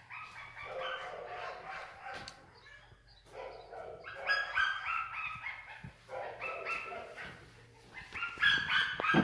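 A dog whining and yipping in three runs of short, high-pitched calls, with short pauses between the runs.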